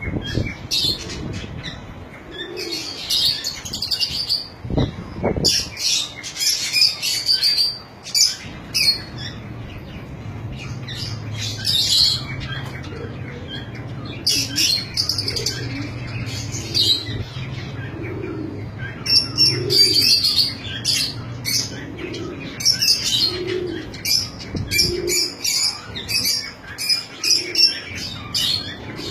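Lovebirds chirping, with sharp high chirps coming in clusters and pauses, several birds at once.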